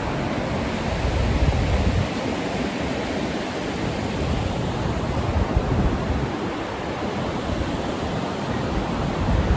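Steady rushing of the Kunhar river's fast water, with wind buffeting the microphone in uneven low rumbles.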